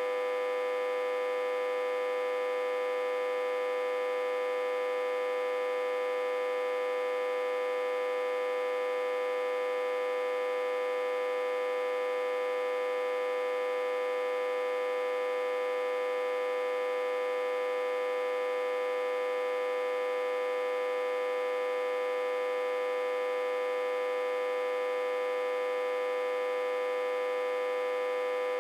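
Autotransformer, reverse-connected to a step-down transformer and fed about 60–80 V, giving off a steady, unchanging electrical hum: a high droning tone rich in overtones.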